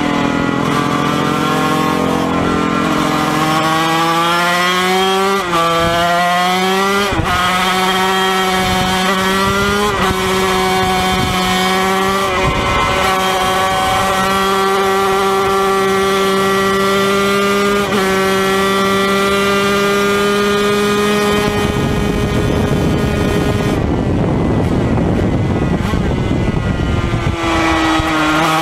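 Yamaha TZ250 two-stroke racing engine at full throttle, heard onboard: revs climb with several short dips in pitch as it shifts up, then hold high and steady. For about six seconds near the end the engine note drops out under wind rush as the throttle is closed, and it opens up again just before the end.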